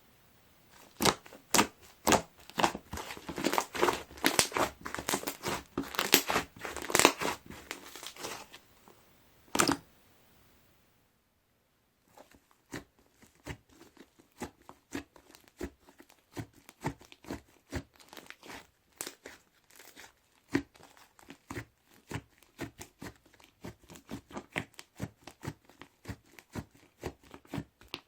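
Styrofoam-bead (popcorn) slime being squished and pressed by hand. For about the first ten seconds it gives a dense, loud run of crackles and pops. After a brief pause the crackles and clicks come back quieter and sparser.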